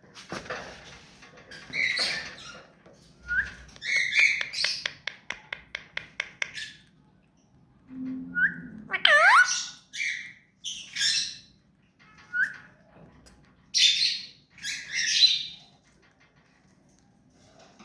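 Ring-necked parakeet giving harsh squawks and short chirps. A fast run of clicking calls, about six a second, comes a few seconds in, and a swooping whistle comes near the middle.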